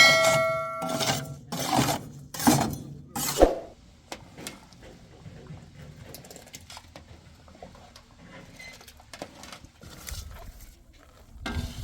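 Sharp blows of a metal tool. The first strike rings for about a second, then three more knocks come roughly a second apart, followed by faint scattered clicks.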